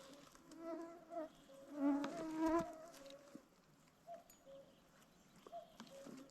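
A fly buzzing close to the microphone, passing loudly twice in the first three seconds with a wavering pitch, then fainter short buzzes and a few light clicks.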